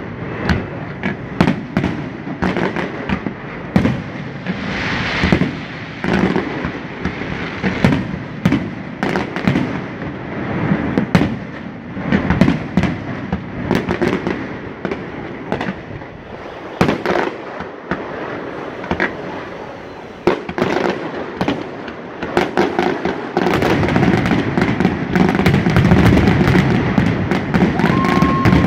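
Fireworks display: a constant run of sharp bangs, booms and crackling from aerial shells and ground fireworks. About three-quarters of the way through it thickens into a louder, continuous crackle.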